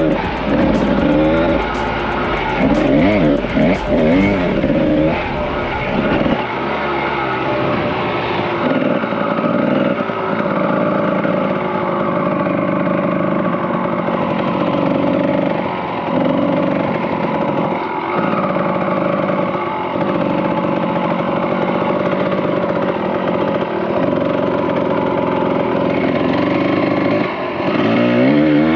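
Kawasaki KDX 220R two-stroke single-cylinder dirt bike engine under riding, revving up and down hard for the first several seconds, then running at a steadier pitch with brief dips as the throttle is eased and opened again.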